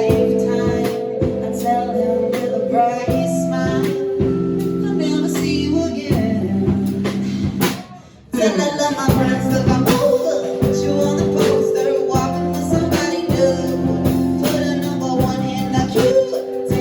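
Live band playing, with electric guitar, drum kit and a singer. A little under eight seconds in the music drops out for about half a second, then comes straight back in.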